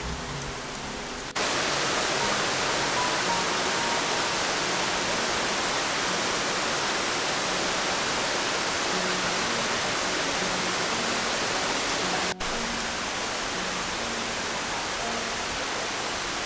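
Heavy rain falling in a loud, steady hiss, cutting in suddenly after about a second and a half of soft background music. The music runs on faintly beneath the rain, which breaks off for an instant about twelve seconds in and then continues slightly quieter.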